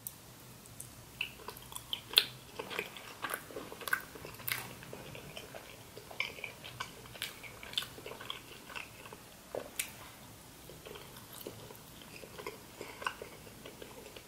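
A person biting into and chewing frozen mochi ice cream, with soft wet mouth clicks at irregular intervals, the loudest a little over two seconds in.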